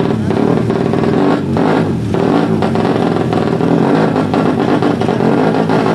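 Tuned four-stroke underbone drag-bike engines revving loudly, the pitch dipping and climbing again about a second and a half in.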